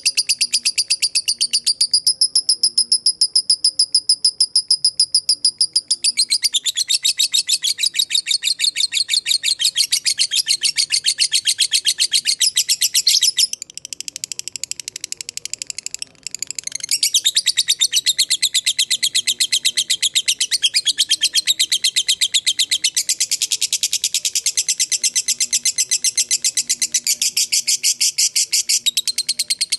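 Lovebird giving its long 'ngekek' chatter: a rapid, unbroken run of sharp, high-pitched repeated notes. It turns briefly softer and looser about halfway through, then resumes at full pace.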